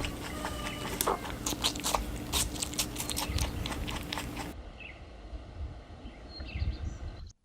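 An animal chewing, with many irregular crunching clicks. About four and a half seconds in the sound changes to a quieter clip with sparser clicks.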